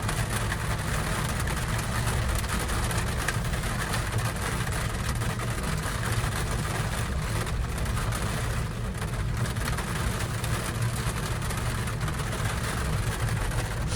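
Steady low rumble and hiss of a gondola cabin travelling along its cable.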